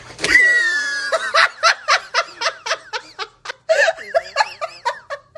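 A person laughing hard in short, even bursts, about four a second, after a high falling cry in the first second.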